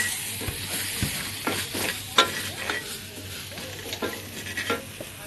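Spice paste (Balinese basa gede) frying in hot oil with a steady sizzle while it is stirred, the spoon clinking and scraping against the pan now and then. It is being fried only until fragrant and half-cooked.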